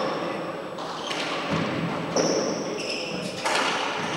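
A handball rally in a four-wall court: the ball hits the walls with hard thuds about a second apart, with a few high squeaks in between.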